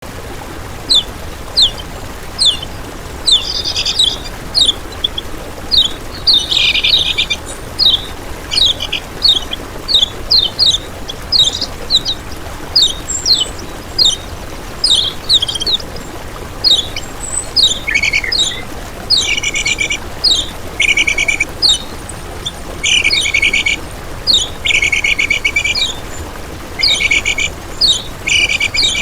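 Common iora singing: a steady series of short, quick down-slurred whistled notes. From about halfway they are mixed with repeated buzzy, rattling trills.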